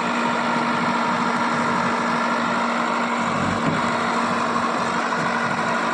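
Heavy vehicle's diesel engine idling steadily, with a brief low rumble about halfway through.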